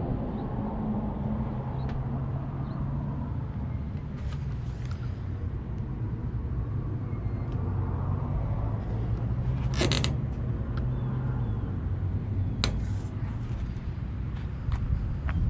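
Engine idling steadily with a low hum, with a short clatter about ten seconds in and a few sharp clicks after it.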